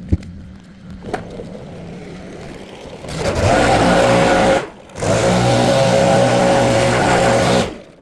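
Small engine of a lawn-care power tool revving up to full throttle about three seconds in. It dips for a moment, runs at full throttle again, then cuts off shortly before the end.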